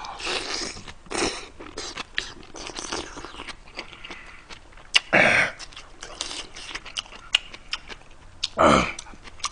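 Close-miked chewing of a mouthful of food, with a run of small wet clicks and smacks. Short loud breathy sounds break in a few times: about a second in, around five seconds and near the end.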